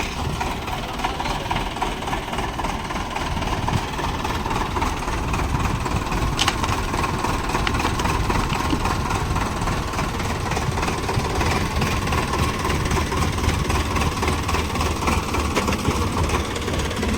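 Diesel engine of a Sonalika RX 47 tractor running steadily, growing a little louder about four seconds in.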